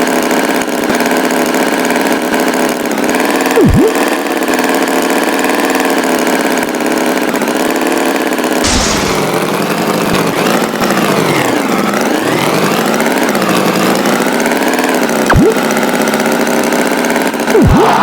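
A tractor engine running steadily, its pitch rising and falling several times in the second half as if revving, with a few brief sharp pitch sweeps along the way.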